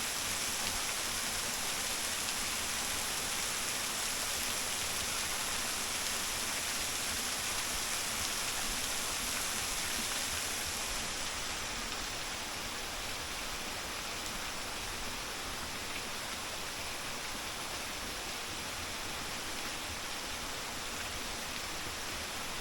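Small waterfall with a thin flow dropping about 5 m, splashing steadily into a mountain stream: a constant hiss of falling water, a little duller about halfway through.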